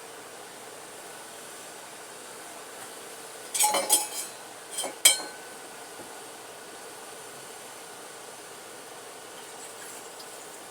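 A short burst of clinks and clatter of kitchen utensils against dishes, about three and a half to five seconds in, the last strike ringing briefly, over a steady low hiss.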